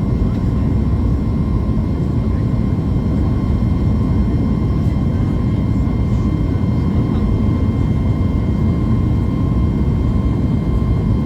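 Steady cabin noise of a Boeing 737 MAX 8 in flight: an even low rumble of engine and airflow, with a faint steady whine above it.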